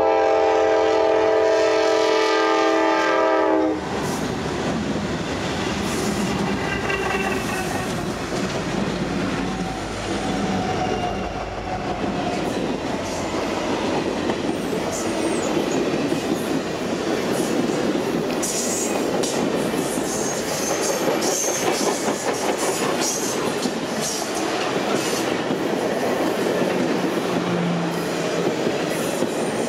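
A Norfolk Southern diesel locomotive sounds its multi-note air horn in one loud blast of about three and a half seconds that cuts off sharply. The train then rolls past: steady wheel rumble and rail clickety-clack from the passing circus train cars, with a few brief high squeals.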